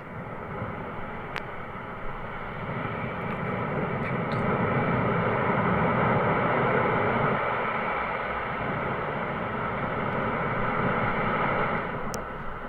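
Rockfall on a mountainside: a continuous, noisy rumble of tumbling rock and debris that swells louder in the middle.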